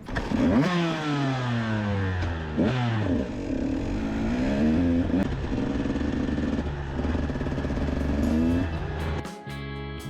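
Dirt bike engine revving, its pitch falling and rising several times before holding fairly steady. Music takes over near the end.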